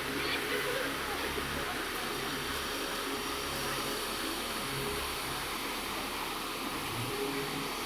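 Motorcycle riding along a road: wind rushing over the microphone, with the engine's low hum rising and falling every second or so.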